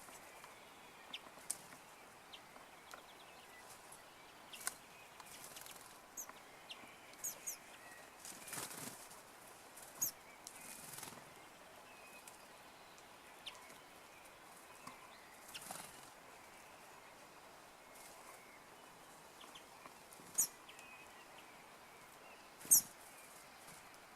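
Small birds giving short, high chirps and quick downward-sweeping notes, scattered and irregular, the two loudest calls near the end. A few brief soft rustles come between them.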